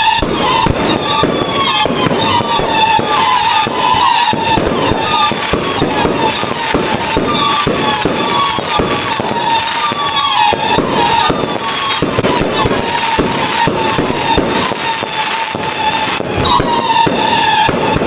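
Fireworks going off, a dense, continuous run of crackles and bangs.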